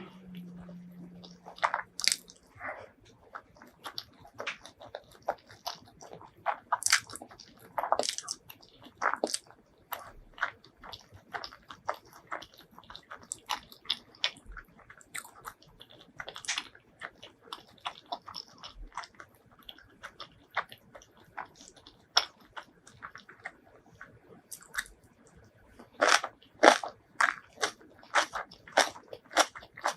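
Close-miked eating: crisp bites and chewing of crunchy food, with a faster run of loud crunches, about three a second, near the end.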